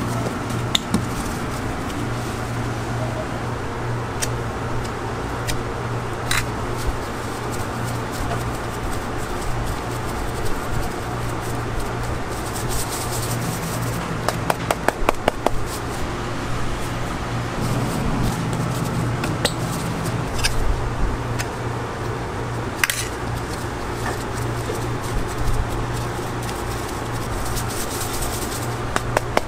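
Food-stall kitchen ambience: a steady low fan hum under scattered clicks and clatters of utensils, with a quick run of clicks about halfway through and two brief hisses.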